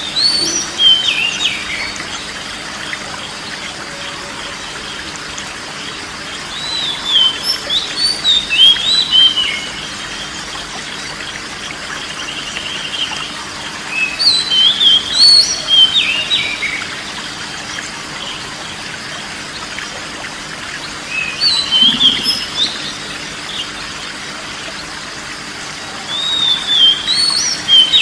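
Songbird singing short, warbled whistling phrases, five of them, about seven seconds apart, over a steady background hiss.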